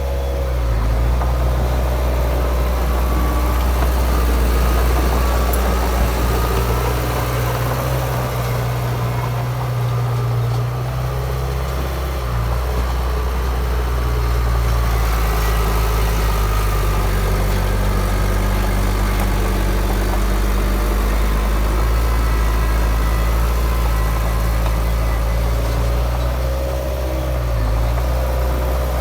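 Heavy diesel engine of a bulldozer running steadily under work, its note shifting a little a couple of times as the load changes.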